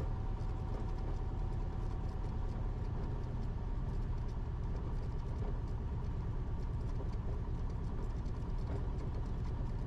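Cessna 172RG's engine and propeller droning steadily from inside the cockpit during the final approach to a landing.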